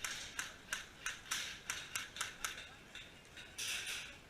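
Footsteps crunching on rough ground at a brisk pace, about two to three steps a second, with a longer scuffing rustle near the end.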